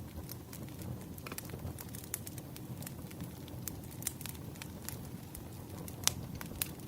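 Wood fire burning with a steady low rumble and irregular crackles and pops of burning logs, one sharper pop about six seconds in.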